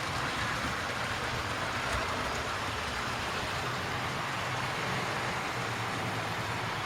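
Model railway train running along the track, a steady whirr of the motor and wheels on the rails that holds even throughout.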